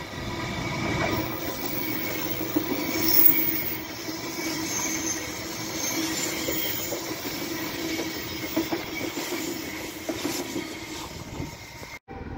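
Queensland Rail New Generation Rollingstock electric multiple unit passing through the station without stopping: steady wheel and rail noise with a steady whine and scattered clicks from the wheels. It cuts off abruptly near the end.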